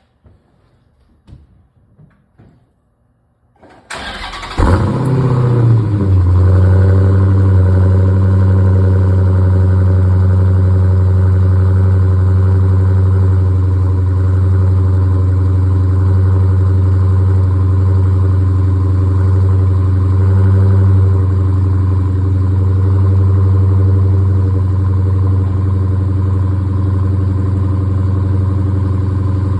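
2021 Dodge Challenger cold start: after a few faint clicks, the starter cranks briefly about four seconds in, the engine catches with a flare of revs, then settles within a couple of seconds into a loud, steady idle.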